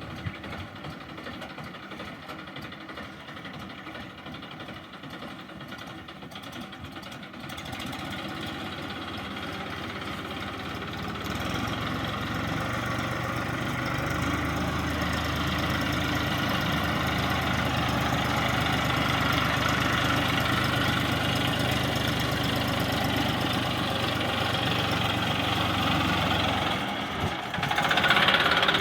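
Tractor engine running steadily. It grows louder about eight seconds in and again about eleven seconds in, as the revs go up. It dips briefly near the end, then comes back louder.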